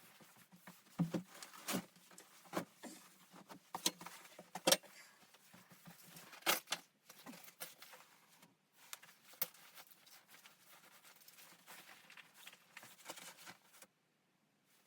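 Irregular clinks and knocks of small objects being handled, some sharper than others, stopping abruptly about a second before the end.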